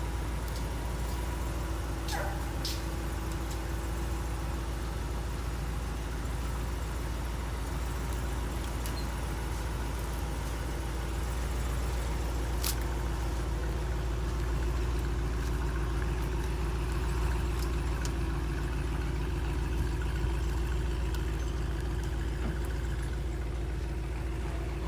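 An engine running steadily: a low, even drone with a steady hum, and a couple of faint clicks.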